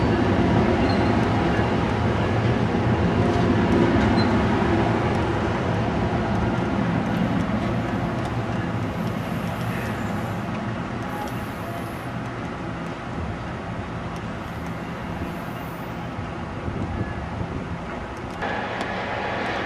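Passenger train rumbling through the station, its noise slowly fading as it moves away; a brighter rushing sound cuts in near the end.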